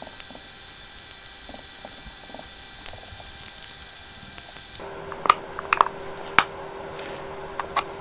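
Scattered sharp metallic clicks and taps of hand tools on a motorcycle drum-brake hub while the brake levers are removed. The steady background hum changes about halfway through.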